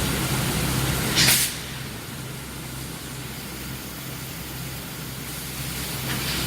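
Induction quenching and tempering line running: a steady low electrical hum under a wash of machine noise, with a short hiss about a second in.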